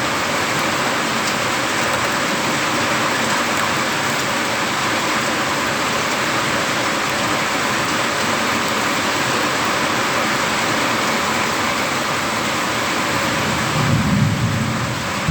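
Heavy rain pouring steadily in a thunderstorm, with a short low rumble near the end.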